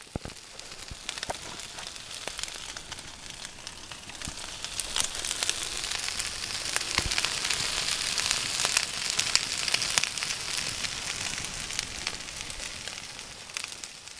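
Meat sizzling over a campfire, a steady hiss dotted with crackles and pops from the fire. It grows louder toward the middle and fades near the end.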